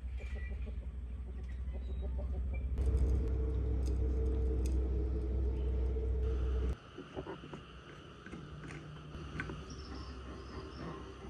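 A steady low machine hum that cuts off suddenly about two-thirds of the way in, leaving a fainter steady high-pitched drone.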